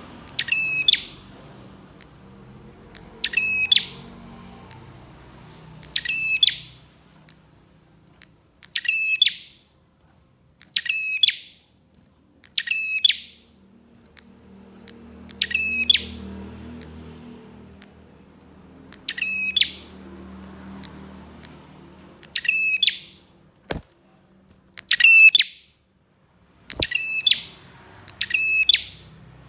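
Prenjak (prinia) singing a short, rapid, trilling phrase that swells louder, repeated about every two to three seconds, about a dozen times. Two sharp clicks come in the last few seconds.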